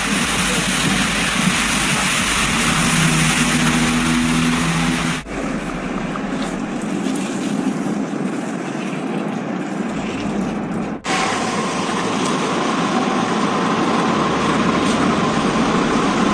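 Steady vehicle and road noise in three clips cut together, about five and eleven seconds in. A low engine hum joins in during the first clip.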